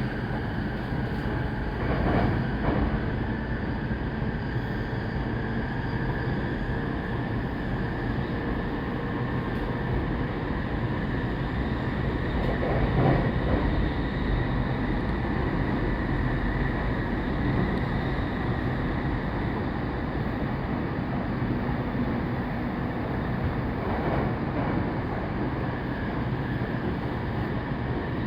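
Saikyō Line commuter rapid train running, heard from inside the passenger car: a steady rumble of wheels on rail with a faint steady hum, and a few brief louder swells about 2, 13 and 24 seconds in.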